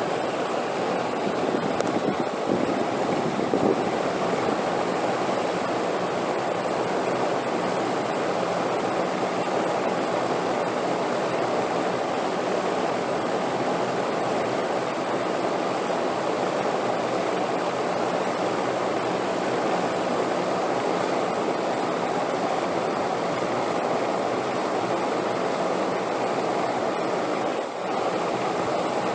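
Steady wind noise: an even, unbroken rushing hiss, with a brief dip in level near the end.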